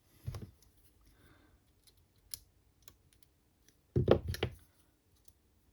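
Scattered light clicks and taps of battery cells and their metal tags being handled and bent on a workbench, with a louder knocking clatter about four seconds in.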